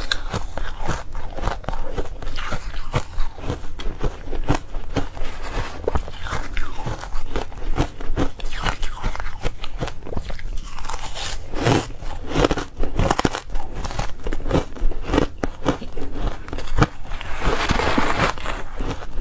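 A person biting and chewing ice close to the microphone: a dense run of sharp cracks and crunches, with a longer grinding crunch near the end.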